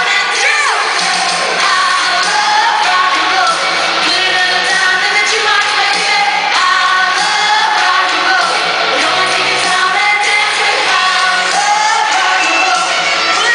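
Pop song played live, with a woman singing lead over the band amplified in a large hall.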